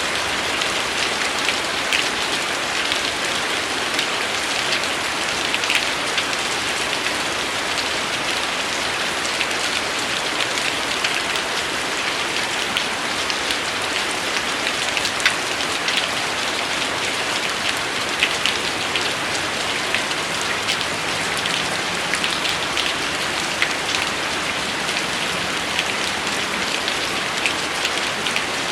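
Steady rain: an even hiss with many separate drops tapping through it, a few louder than the rest.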